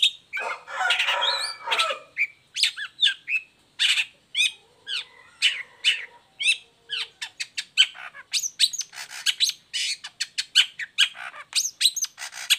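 Long-tailed shrike (cendet) singing a loud, varied song of sharp, quick notes, with a harsh rasping stretch near the start and the notes coming fastest in the second half.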